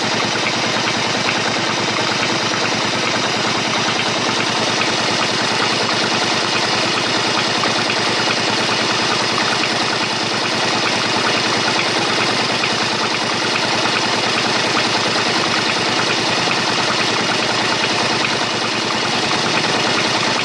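Honda Shadow 125 motorcycle's small V-twin engine running steadily, a rapid even pulsing of firing strokes with no change in speed.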